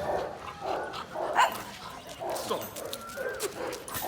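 Pet dogs whining and giving short yips, with one louder yip about a second and a half in.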